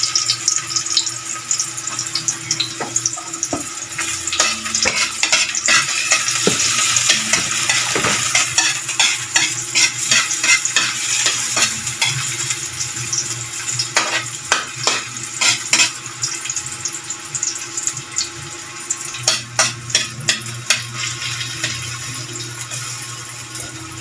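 Chopped onion and garlic sizzling in hot oil in a steel wok, with a metal spatula scraping and clinking against the pan as they are stirred. The clinks come in short runs over a steady hiss.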